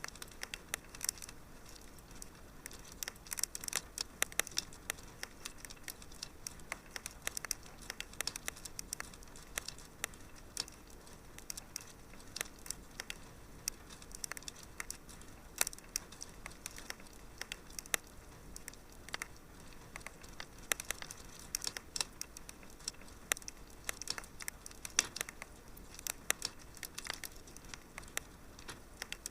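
Wood fire crackling in a fireplace: irregular sharp snaps and pops, several a second, over a faint steady hiss.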